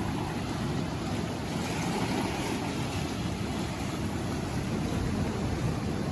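Steady rushing noise with a low rumble and no distinct events.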